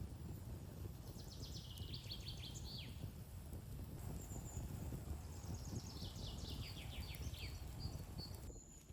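A songbird singing two songs, each a quick run of notes stepping down in pitch and lasting about two seconds, over a steady low rumble.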